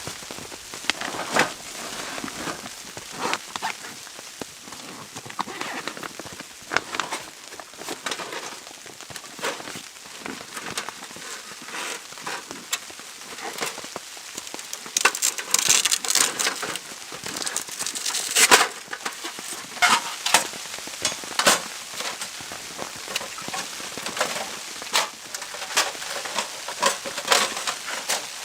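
Camping gear being handled while a wood stove is set up: irregular clicks, taps and rustles, with a busier run of sharp knocks about halfway through.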